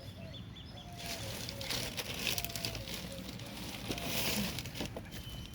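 Newly lit campfire of paper and kindling catching, crackling and hissing more strongly from about a second in. In the background a bird repeats a short call about every half second.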